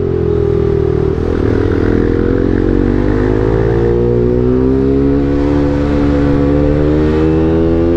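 Bajaj NS200's single-cylinder engine through an Akrapovic full-system exhaust, accelerating under load with the revs climbing steadily from about a second in.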